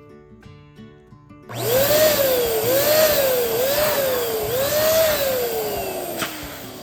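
Electric balloon inflator blowing air into a balloon, starting about a second and a half in. The motor's whine rises and sags four times in pulses, then falls steadily and fades as it winds down near the end, with loud air rushing.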